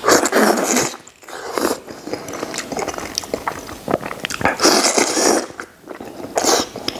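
A person biting and chewing soft, fatty braised pig-head meat dipped in chili sauce, wet mouth sounds coming in several loud bursts with small smacking clicks between them.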